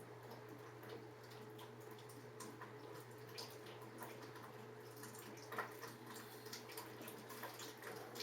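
Rainwater dripping irregularly from a leaking flue pipe into a bucket, rain getting in down the stack. A steady low hum runs underneath.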